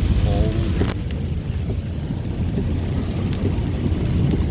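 Car driving through floodwater in a heavy downpour, heard from inside the cabin: a steady low rumble of tyres and water with rain hiss over it, and a sharp click about a second in.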